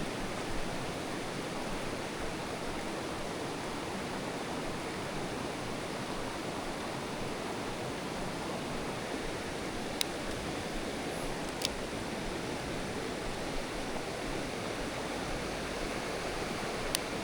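Mountain stream water rushing steadily over rocks, with a few sharp clicks, one about two-thirds of the way in, one shortly after and one near the end.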